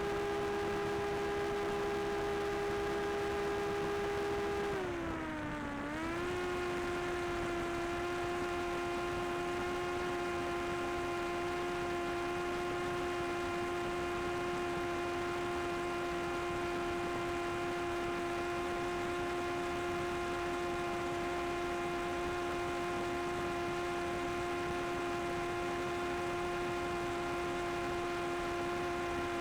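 Drone propellers whining steadily at one pitch. About five seconds in the pitch dips briefly, then settles slightly lower and holds.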